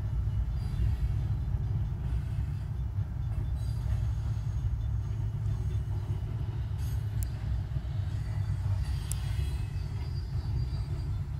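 Freight train of log and lumber cars rolling past with a steady low rumble, and two brief sharp clicks about seven and nine seconds in.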